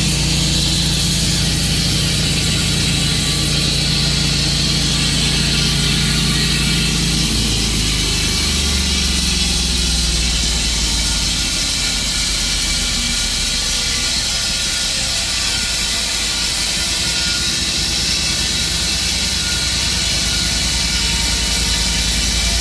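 Tru-Cut sawmill's engine running steadily under load, its note dropping to a lower pitch about eight seconds in, over a steady high hiss.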